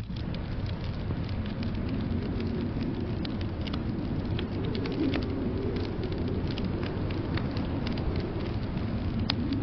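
Wood fire crackling, with many small sharp pops, over a steady low rumble of blizzard wind.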